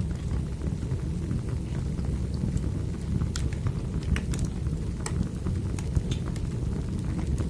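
Wood fire burning: a steady low rumble of flames with scattered sharp crackles and pops of the burning logs.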